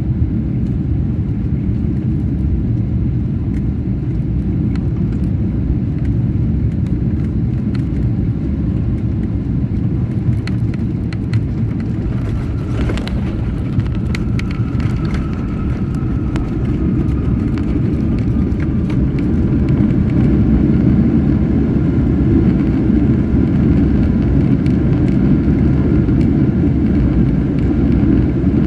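Cabin noise inside a Boeing 777-300 airliner during its arrival: a steady, loud low rumble of engines and airflow that grows louder about twenty seconds in, with a few faint clicks along the way.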